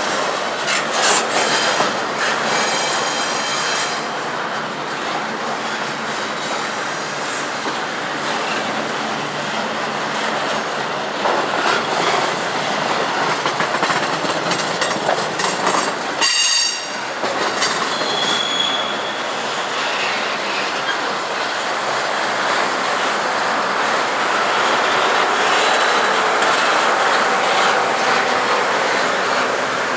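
Intermodal freight train's cars rolling slowly past, a steady rumble of steel wheels on rail with clicks over the joints. Short high wheel squeals come a couple of seconds in and again about halfway through.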